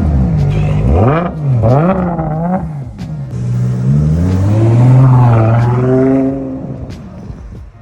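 Car engine revving: four quick blips in the first three seconds, then one longer rev that rises, holds and dies away near the end.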